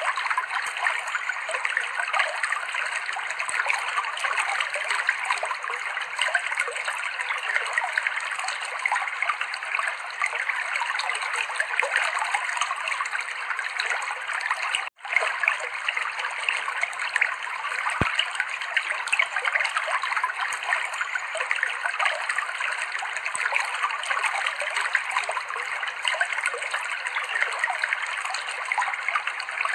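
Clear river water flowing and splashing over rocks in a steady babble, which cuts out for a split second about halfway through.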